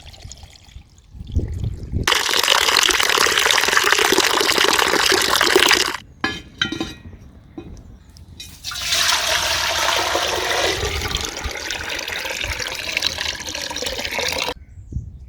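Running water, in two long runs of about four and six seconds with a short break between them.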